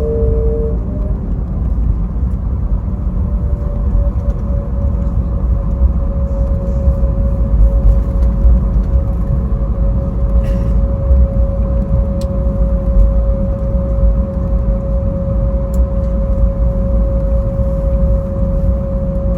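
Cabin noise inside a landing Airbus A321neo: a steady, loud low rumble from the jet engines and the airframe rolling along the runway. A steady humming tone comes in about four seconds in and holds.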